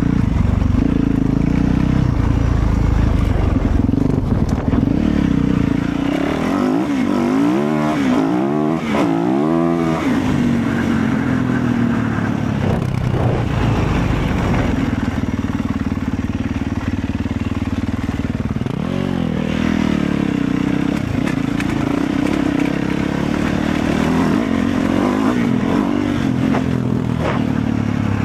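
Motorcycle engine running under way, steady and loud, with its pitch swinging up and down for a few seconds about a quarter of the way in.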